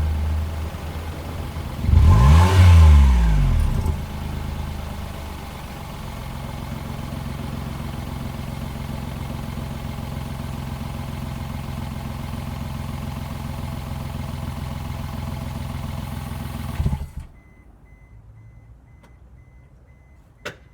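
Daihatsu Mira Gino (L700S) three-cylinder 660 cc engine through an aftermarket cannonball-style muffler: a quick throttle blip that rises and falls, then a steady idle. The idle stops abruptly about three-quarters of the way in, after which a faint repeating high beep and a single click are heard.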